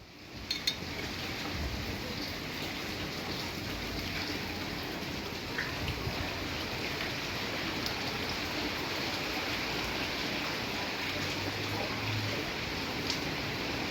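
Steady rushing noise of a windstorm with rain, with a few faint ticks scattered through it.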